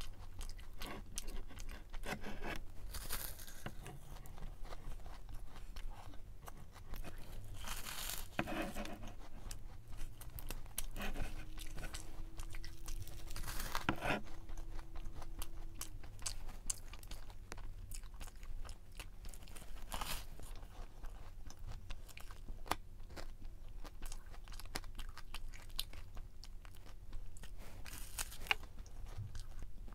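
A person eating: chewing with repeated crunchy bites, the louder crunches coming every few seconds.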